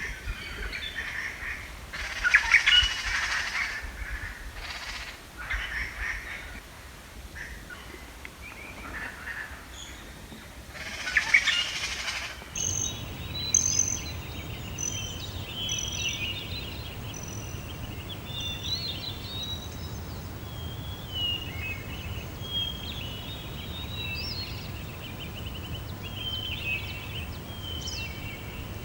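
Birds calling: a few loud, harsh calls in the first part, then about twelve seconds in an abrupt change to many short high chirps and whistles of birdsong over a steady low rumble.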